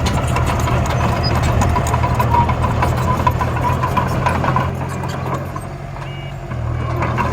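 Heavy-machine diesel engine running steadily, dropping a little for a moment past the middle and then picking up again.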